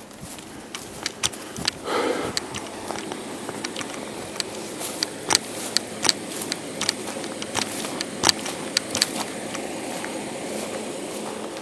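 Scattered sharp clicks, knocks and rattles of someone moving about inside a wrecked, overturned truck cab, over a steady background rush. A louder scraping rush comes about two seconds in.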